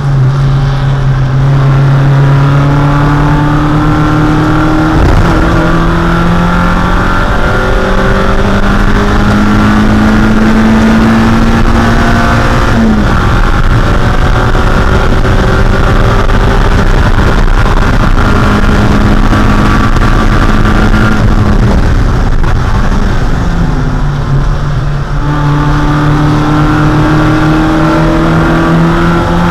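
1.6-litre Mazda Miata four-cylinder engine running hard under race throttle, its pitch climbing through the revs with breaks at gear changes about 5 and 13 seconds in, easing off near the two-thirds mark and then climbing again.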